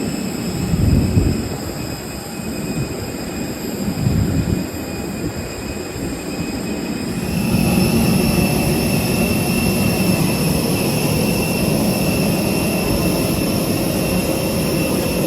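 Steady cabin air-conditioning noise inside a parked Airbus A321neo, a rushing hum with several thin steady whines over it. Two dull low thumps come about 1 and 4 seconds in, and about seven seconds in the airflow grows louder and fuller and the whines change pitch.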